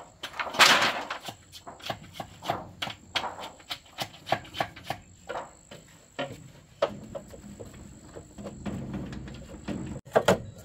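Irregular knocks and taps, several a second, with a louder rustling burst about half a second in.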